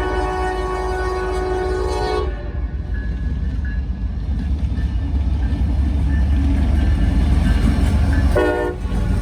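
Norfolk Southern freight train's locomotive air horn sounding a long chord that cuts off about two seconds in, then the low rumble of the approaching train growing louder, with a short horn blast near the end.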